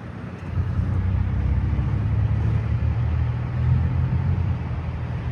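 A heavy vehicle engine rumbling close by, coming up about half a second in and then running steadily.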